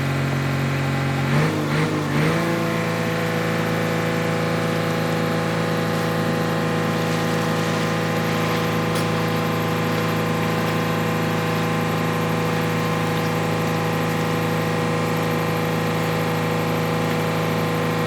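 JCB backhoe loader's diesel engine running steadily. About a second and a half in, the engine note wavers as the engine speed changes, then it settles and holds steady again.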